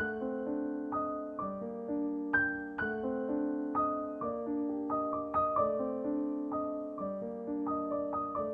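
Gentle background piano music: single notes and soft chords struck about twice a second, each ringing on as the next comes in.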